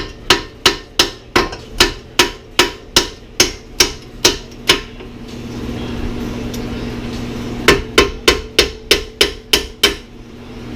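Hammer blows on steel bolts, driving the coilover's mounting bolts out. About a dozen sharp, ringing strikes come at roughly two or three a second, then a pause of about three seconds, then about eight more strikes.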